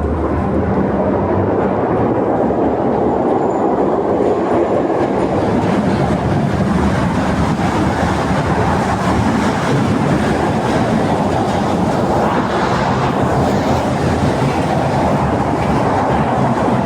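Coupled pair of Tatra tram cars running steadily along the track: constant noise of wheels on rails and running gear.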